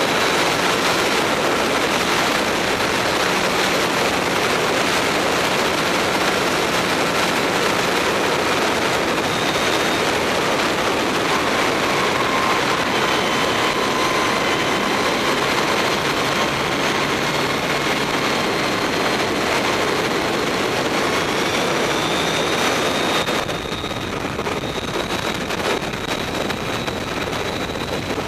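Onboard sound of the Mavizen TTX02 electric racing motorcycle at speed: a steady, dense rush of wind and road noise with the thin whine of the electric motor and drivetrain sliding slowly up and down in pitch. About 23 seconds in, the sound drops a little in level and loses some of its high end.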